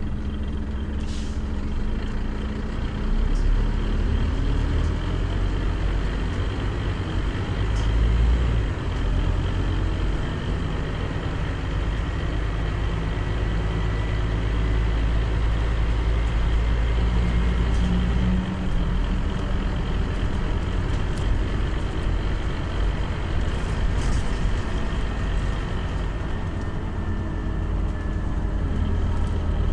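Scania CN270UB city bus running along the road, its diesel engine giving a steady low drone that shifts a few times, with road noise.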